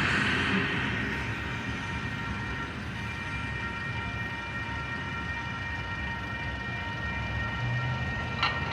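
Herzog ballast train going away: the noise of its passing fades over the first couple of seconds, leaving a steady high whine of several tones and a low rumble. A single short knock comes near the end.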